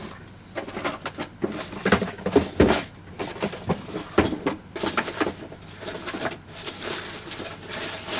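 Rummaging: an irregular run of knocks, clicks and rustles as things are moved about and set down on a work desk in a search for a bone folder.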